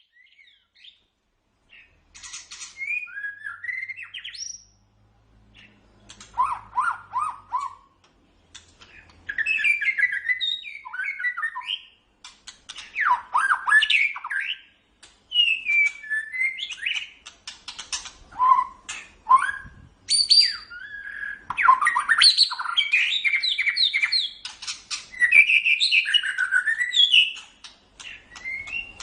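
White-rumped shama singing: varied phrases of whistled glides, trills and rapid harsh chatter, coming in bursts of a second or two with short pauses between them.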